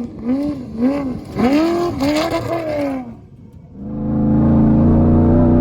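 Prerunner truck engine blipped repeatedly, each rev rising and falling in pitch, running again after a fuel-pump fix. After a short gap it settles into a loud, steady engine note under sustained throttle.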